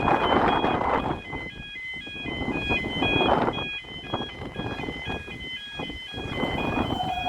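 Level crossing warning alarm sounding, a repeating stepped electronic warble of high tones, over loud rushing noise that swells and fades every second or two.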